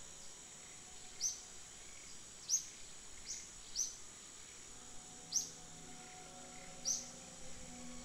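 A bird calling with short, sharp, high chirps that slide downward, about six of them at uneven intervals, over a faint steady outdoor hiss.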